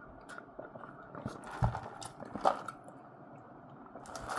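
Close-miked eating and drinking mouth sounds: soft chewing with scattered small clicks and smacks, and two louder ones about a second and a half and two and a half seconds in.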